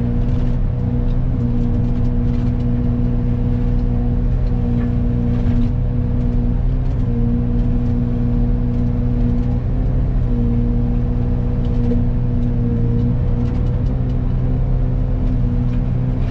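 Excavator engine and Fecon hydraulic forestry mulcher head running steadily, a constant pitched hum that dips slightly now and then, with faint scattered ticks.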